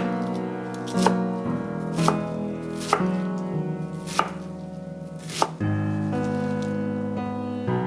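Knife chopping on a cutting board: about six separate strikes, roughly one a second, over soft background music.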